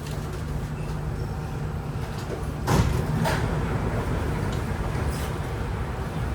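CT251 metro car running, heard from inside: a steady low rumble broken by a few heavy knocks, the loudest pair about halfway through. The knocks are the pounding of flat-spotted wheels.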